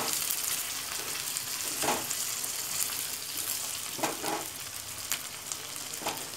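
Chicken pieces frying in hot oil in a karahi, a steady sizzle while the raw chicken cooks until its colour changes. A spatula stirs through them, with a few short stirring strokes about two seconds apart.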